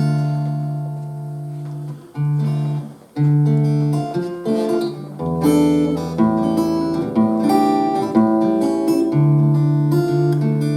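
Acoustic guitar playing a song's introduction: several strummed chords that ring out and fade, then a busier passage of notes from about five seconds in.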